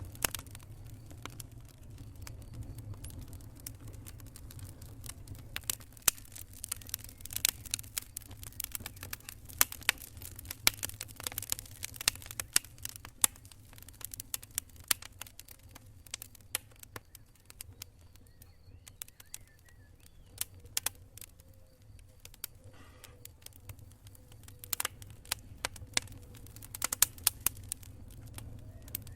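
Wood campfire crackling and popping in quick irregular snaps, thickest in the middle and near the end and sparser between, over a steady low rumble.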